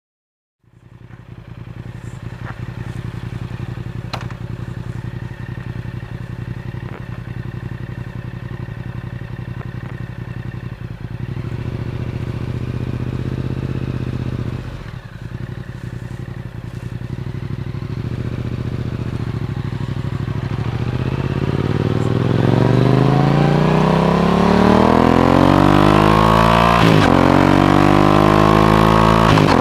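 Yamaha R7's 689 cc parallel-twin engine through an Akrapovic exhaust, running steadily at first and then accelerating from about twenty seconds in, its pitch climbing as it grows louder, with a couple of brief breaks near the end.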